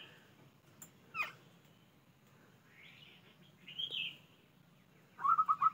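A bird calling: a few scattered chirps, then from about five seconds in a quick run of short repeated notes, about four a second.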